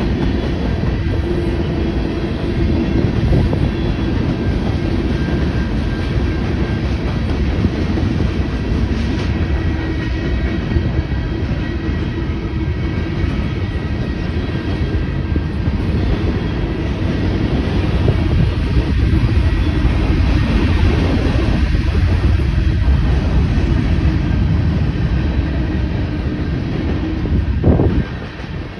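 CSX freight train's cars rolling past at steady speed, a continuous loud rumble of wheels on the rails, dropping suddenly in level near the end.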